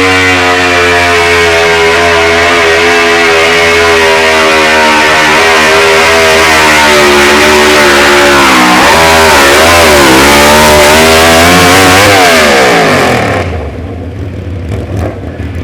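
Modified pulling garden tractor engine running hard at high revs, its note wavering a few times late on. Near the end the revs fall away and the sound drops off sharply to a much quieter low running.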